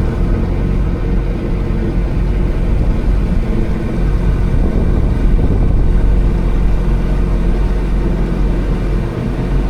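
Kawasaki Ultra 310 LX jet ski's supercharged four-cylinder engine running steadily underway, a constant low rumble with an even engine note.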